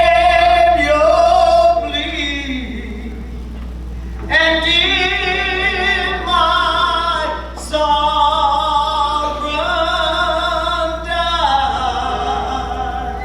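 Slow hymn sung by worship singers, long held notes with vibrato in phrases separated by short breaks.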